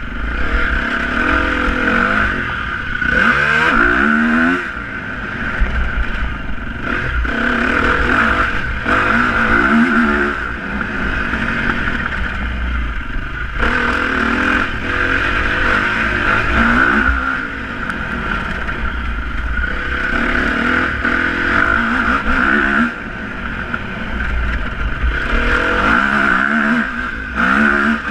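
Motocross motorcycle engines revving, the pitch climbing and dropping again every few seconds as the throttle is opened and closed.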